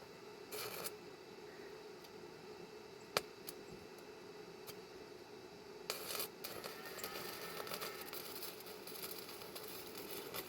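Faint crackling of an electric welding arc heard from a distance, starting about six seconds in, after a brief scrape and a single sharp click.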